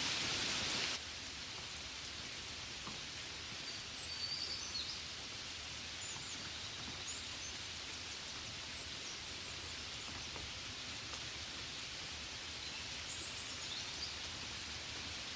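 Steady hiss of rain, louder at first and dropping suddenly to a softer, even level about a second in. A few faint high chirps come through a few seconds in and again near the end.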